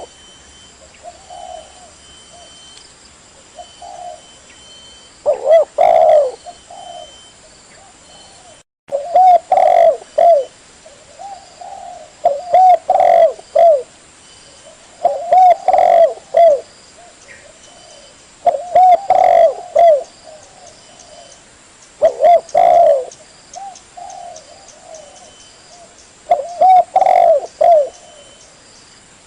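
Spotted dove (tekukur) cooing over and over, a short phrase of a few rounded, low notes every two to four seconds. The sound drops out for a moment about nine seconds in.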